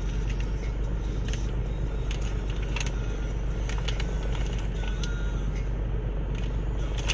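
Steady low hum of a running vehicle heard from inside, with scattered light clicks and rustles from handling.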